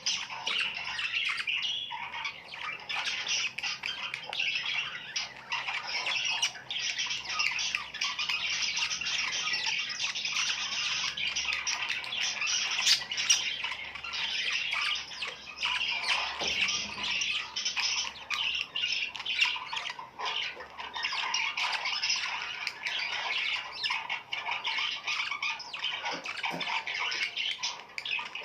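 Many birds calling at once, a dense unbroken chatter of short overlapping calls.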